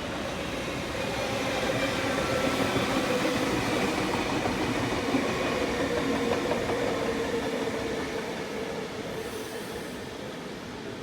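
A train passing on the rails: the rumble swells over the first couple of seconds, holds, then fades away toward the end, with a steady whine over the wheel noise.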